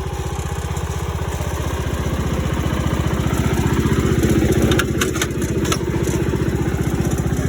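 John Deere lawn tractor engine running steadily with an even, rapid pulse, getting a little louder about four seconds in. A few sharp clicks sound about five seconds in.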